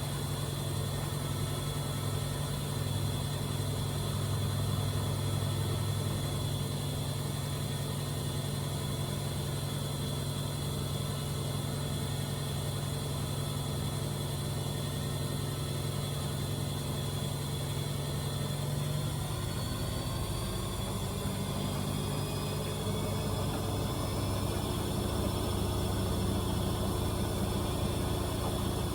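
AEG Öko-Lavamat 74780 washing machine running with a steady motor hum. About two-thirds of the way through, the hum changes pitch and a faint whine begins to rise slowly.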